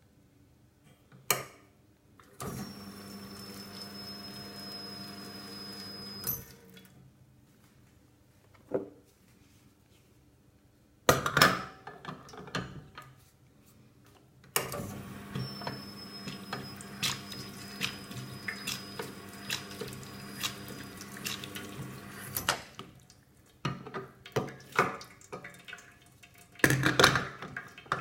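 Water running with a thin, high-pitched whistle over it, twice: once for about four seconds and once for about eight. Each time the whistle slides down a little at the start, holds steady, then cuts off suddenly. Sharp knocks and clatter come between the two runs.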